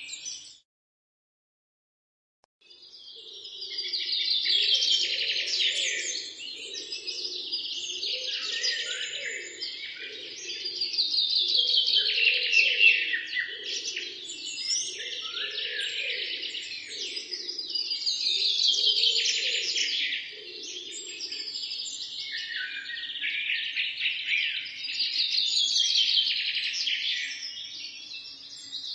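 Birds singing in a dense chorus of fast trilling, chirping phrases that swell and fade every few seconds, with a lower call pulsing about once a second through most of it. The sound cuts out completely for about two seconds near the start.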